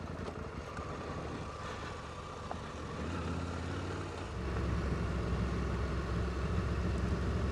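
Motorcycle engine running at low revs on a loose downhill gravel track, getting louder about four seconds in.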